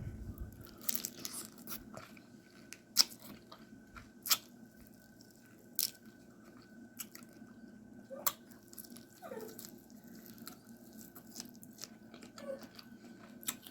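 Eating a seafood boil of snow crab and shrimp by hand: shells cracking and snapping, with chewing in between. The cracks are scattered and sharp, and the loudest comes about three seconds in.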